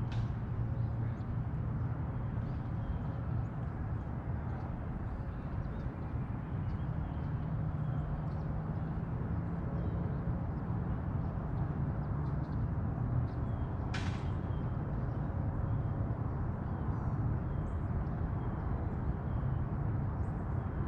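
Outdoor lakeside ambience: a steady low rumble, with faint bird calls scattered through it and a single sharp click about 14 seconds in.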